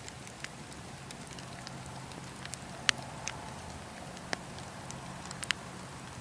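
Wood fire crackling, with irregular sharp pops and snaps over a steady low burning sound; the loudest pops come about three seconds in and again near the end.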